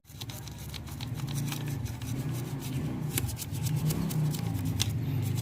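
Scrubbing and scraping on the grimy underside of a Yamaha Sniper 150's engine during degreasing, with many short scraping clicks over a steady low hum.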